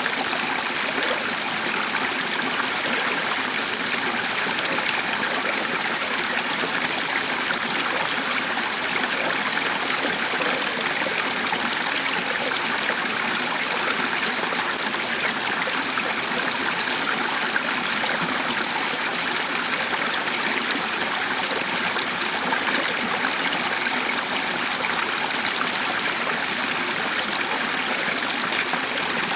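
Stream water flowing steadily, an even rushing with no change in level.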